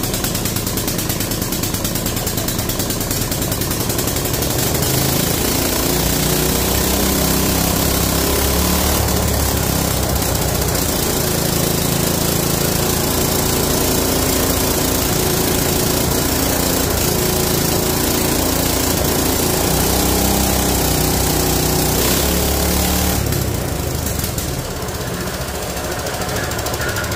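Mini bike's Harbor Freight Predator single-cylinder four-stroke engine running, its speed rising and falling several times and easing off near the end. It has just been revived by draining water from the carburettor float bowl, and its oil is milky with water.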